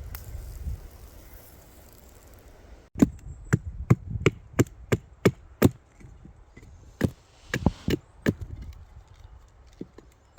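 Wood being chopped: a fast run of sharp chops, about three or four a second, starting about three seconds in, then a few more chops after a short pause.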